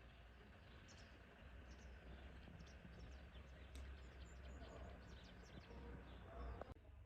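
Small songbirds chirping faintly with many short, high calls over a low, steady outdoor background rumble. The background noise drops off abruptly near the end.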